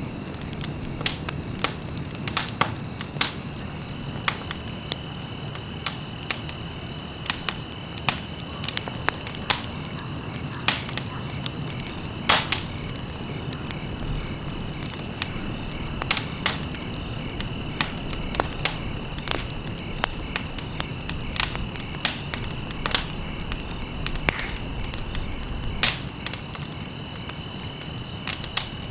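Wood fire in a fireplace, crackling and popping at irregular moments over a low, steady rumble of the burning fire.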